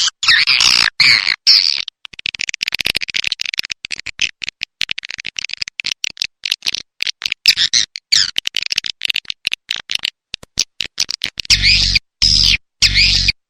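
Swiftlet lure recording: dense, rapid high chirping calls of swiftlets, cut into choppy bursts with abrupt gaps, the kind of track played to draw swiftlets into a nesting house. Near the end a deep pulse sounds under each of four chirp groups.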